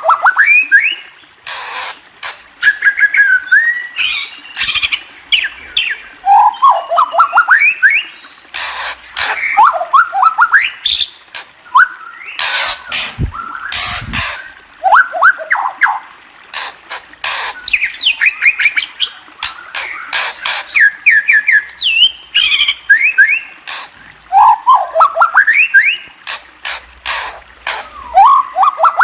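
Murai songbird singing: repeated runs of quick whistled notes that climb in pitch, mixed with many sharp clicking calls.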